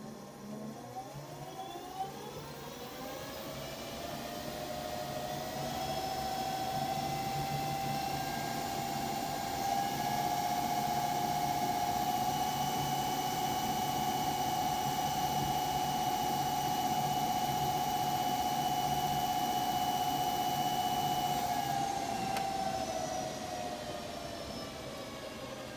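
5,000-watt, 72-volt electric hub motor of a Flywing Ninja motorcycle spinning its wheel free off the ground under throttle. Its whine rises in pitch over the first six seconds, holds steady at top speed for about fifteen seconds, then falls as the wheel winds down near the end, over a steady low hum.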